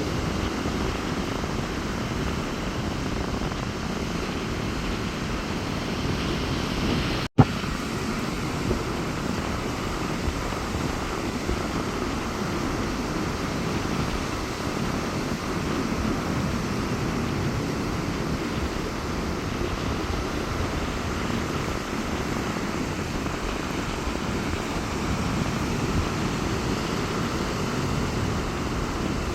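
Rough sea surf breaking steadily on a beach, a constant low rumble of waves with wind on the microphone. The sound cuts out briefly with a click about seven seconds in.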